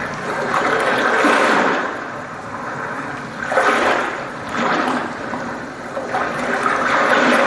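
Rushing, flushing water sound that swells and fades in about four surges.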